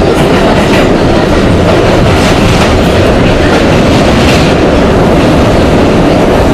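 Budd R32 subway car running through the tunnel, heard from inside the car: a loud, steady rumble with wheels clacking irregularly over rail joints.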